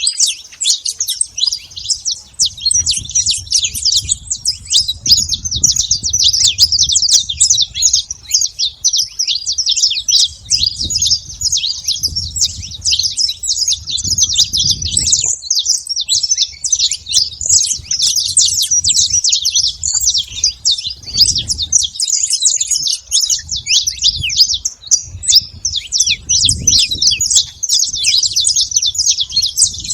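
Saffron finch singing: a dense, unbroken stream of rapid high chirping notes. A low rumble comes and goes underneath.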